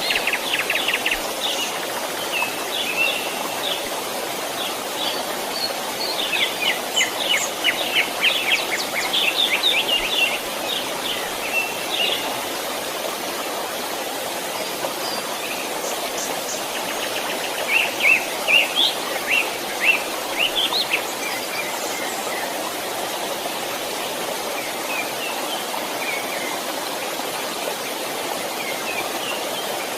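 A creek running steadily, with birds chirping over it: flurries of quick repeated calls, busiest in two spells, one a quarter of the way in and one just past the middle.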